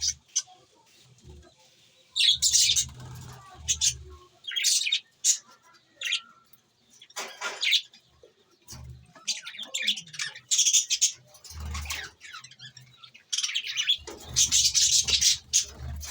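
Pet budgerigars chirping and chattering in irregular bursts of high, rapid calls every second or two, some with a low rumble beneath them.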